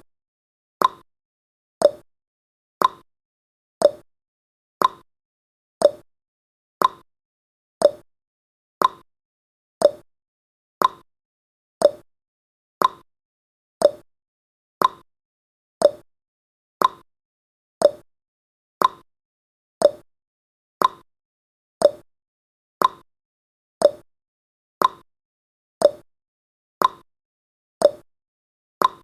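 Countdown timer's clock-tick sound effect: one short, sharp tick each second, alternating between a slightly higher and a slightly lower tick like a tick-tock.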